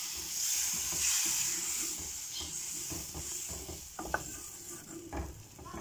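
Onion-and-spice masala sizzling in an aluminium karahi after a splash of water, with a wooden spoon stirring and scraping it. The sizzle is strongest in the first couple of seconds and fades. A few short scrapes of the spoon come near the end.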